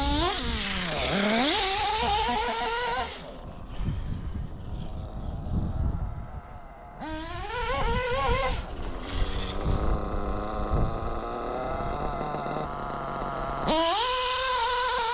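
Ielasi Dusty two-stroke nitro RC engine revving hard in three bursts: at the start, about halfway and near the end. Its pitch climbs and falls with each burst, and between them it runs at a lower, steadier note. The owner judges it to be running lean on the low-speed needle, or to have an air leak.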